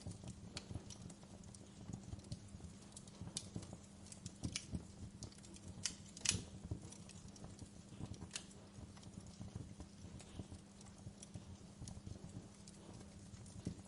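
Wood fire crackling in a fireplace: irregular pops and snaps, the loudest about six seconds in, over a low steady hum.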